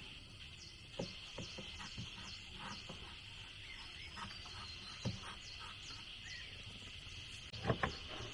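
Steady, high insect drone with repeated short chirps over it. A few sharp knocks come through: one about a second in, one near five seconds, and a quick double knock near the end.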